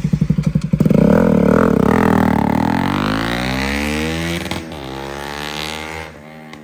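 Bajaj Pulsar NS200 single-cylinder engine through a freshly fitted Akrapovic aftermarket exhaust, pulling away. It fires in quick beats, then opens up about a second in and revs, its pitch climbing, drops at a gear change about four and a half seconds in, climbs again, and fades into the distance.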